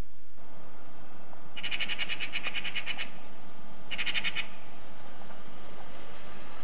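A bird giving two rapid rattling calls of about ten notes a second: the first about one and a half seconds long, the second, about a second later, half a second long.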